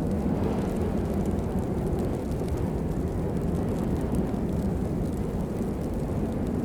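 Steady rain, a dense low-pitched rushing noise with faint scattered drop ticks above it.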